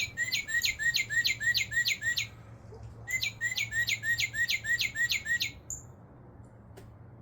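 Northern cardinal song: two phrases of about ten quick down-slurred whistled notes each, with a short pause between them.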